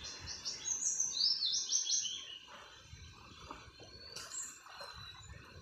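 A bird singing a quick run of short, high chirps, about four a second, for the first two seconds, then a single rising whistle about four seconds in.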